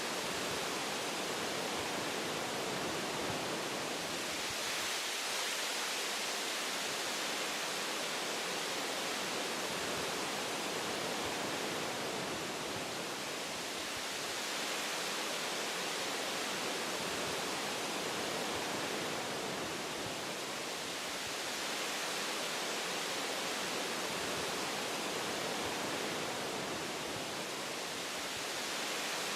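Wind rushing through the branches of forest trees: a steady hiss that swells and eases in slow gusts.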